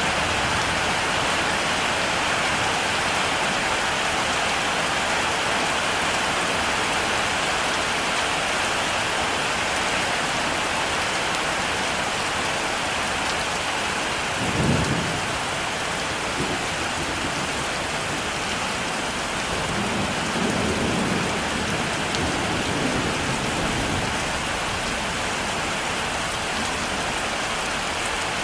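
Heavy rain falling steadily, with a sharp clap of thunder about halfway through and low rolling thunder a few seconds later.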